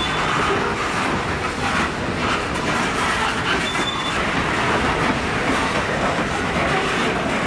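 Railroad cars of a freight train rolling past, their steel wheels rumbling steadily on the rails. A brief high wheel squeal comes about three and a half seconds in.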